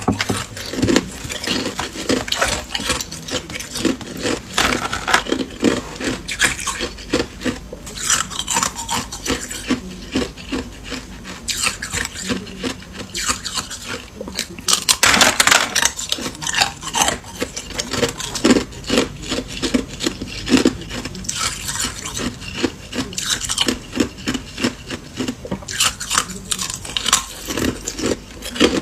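Ice being bitten and chewed close to the microphone: a dense run of crisp crunches and crackles, with one longer, louder crunch about halfway through.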